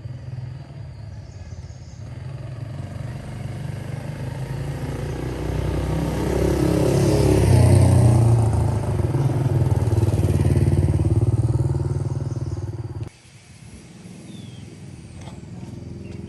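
Motorcycle engine running, growing louder to a peak about midway and holding there, then cutting off abruptly near the end.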